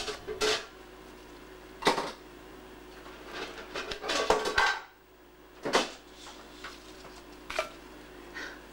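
Scattered clinks and knocks of hard objects being handled, like dishes or a pot: single strikes about two seconds in, near six and near seven and a half seconds, with a short cluster around four seconds.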